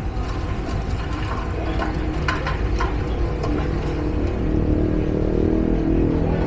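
Steady low engine rumble, with a few sharp knocks about two seconds in. Music with held tones fades in during the second half.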